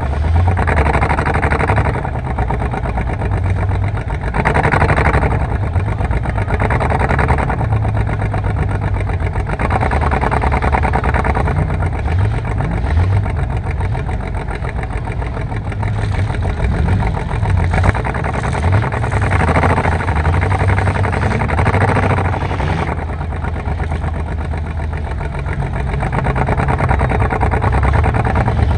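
Car engine running, its revs rising and falling every few seconds.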